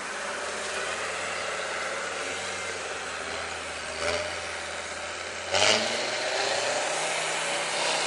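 Off-road 4x4's engine running, with a sharp loud rev about five and a half seconds in, after which it holds at higher revs.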